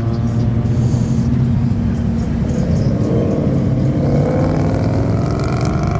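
Pickup truck engine running at a steady speed, with an even low drone and no revving.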